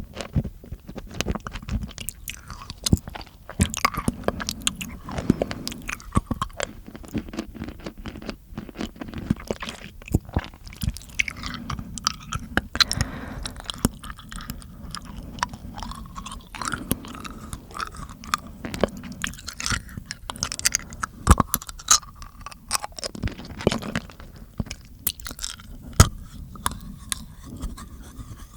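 Mouth sounds made right against the microphone: a dense, irregular run of wet clicks, smacks and crunchy chewing-like crackles.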